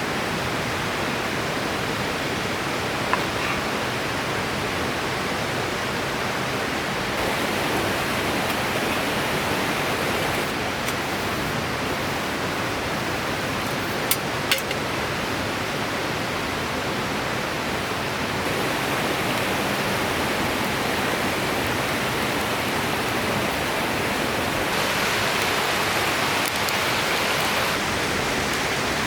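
Mountain river rushing steadily over its bed. A brief sharp click sounds a few seconds in, and two more come about half a second apart midway.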